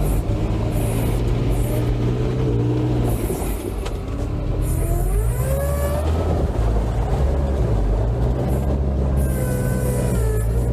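Off-road vehicle engine running under load, its pitch rising as it revs about halfway through and again near the end.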